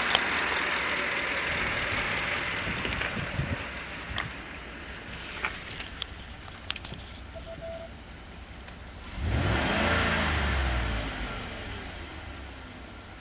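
Ford 6.2 L Boss V8 gasoline engine running, settling from a faster speed to a steady idle over the first several seconds, with a few sharp clicks. About nine seconds in it is revved once, its pitch rising and falling, then drops back to idle.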